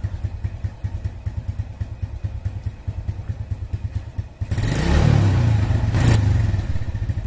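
A 2006 Suzuki New Smash 110's single-cylinder four-stroke engine idles with a steady low putter, then is revved briefly a little past halfway for about a second and a half before dropping back to idle. It is running on a newly fitted regulator-rectifier to recharge the battery.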